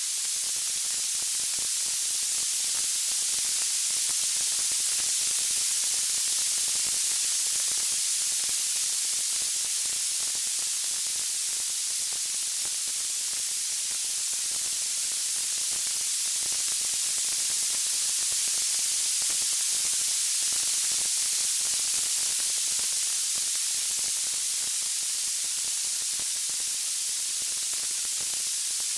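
Steady high-pitched white-noise hiss with no crackles or pops, swelling and easing slowly.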